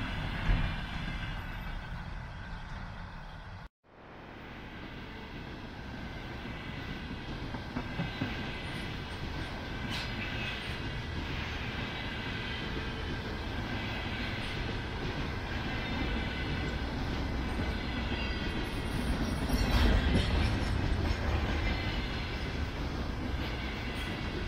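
Container freight train rolling past, its wagons clattering over the rail joints, with thin steady squeal tones from the wheels. The sound cuts out suddenly about four seconds in, then builds back up and holds steady.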